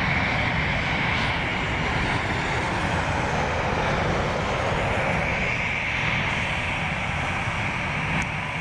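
Jet aircraft engines running with a steady roar, strongest in a high band near 2 kHz.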